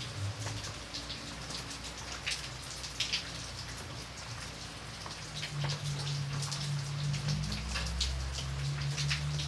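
Rain falling on a window pane: a steady hiss of rain with many separate raindrop ticks and patters. A low steady hum sits underneath and grows stronger about halfway through.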